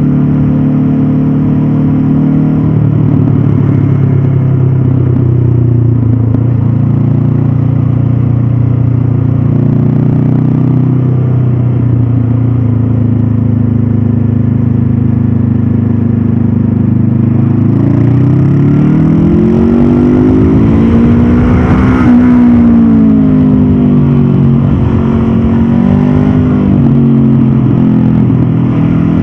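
Honda CB500F's 471 cc parallel-twin engine running on the move, holding fairly steady revs for a long stretch, then revving up about two-thirds of the way through and easing off again, followed by a shorter rise and fall.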